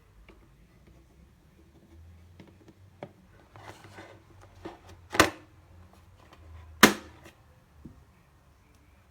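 Plastic food storage containers being handled: a few light knocks and a soft rustle, then two sharp clicks about a second and a half apart.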